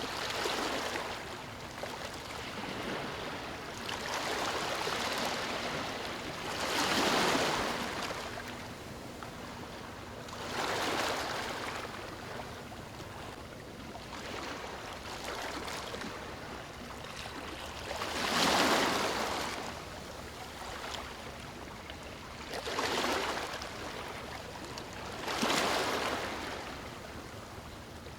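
Small ocean waves breaking and washing up a beach, a swell of surf hiss every three to four seconds over a steady background wash.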